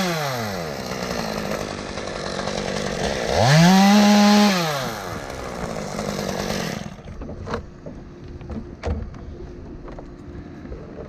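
Chainsaw engine revving: a full-throttle rev winds down in the first second, then it revs up again for about a second and a half around three to five seconds in and falls back. From about seven seconds in, only quieter background with a few sharp knocks.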